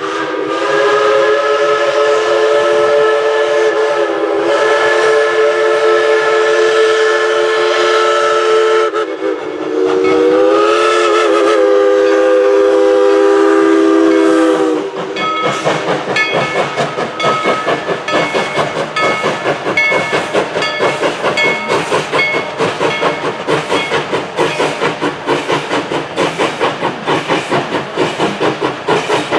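Crosby chime steam whistle on steam locomotive 190 sounding a long chord blast, then a second blast about nine seconds in that wavers up at its start. About fifteen seconds in the whistle stops and the locomotive works away with a steady, rapid exhaust chuff.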